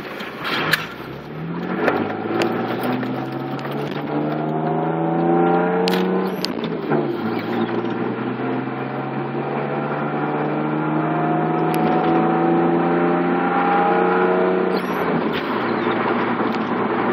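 Twin-turbo 3.0-litre V6 of a 1993 Mitsubishi 3000GT VR-4 with upgraded 15G turbos, heard from inside the cabin under hard acceleration on race fuel. The revs climb, break with an upshift about seven seconds in, then climb again through a long pull in third gear until the driver backs off near the end.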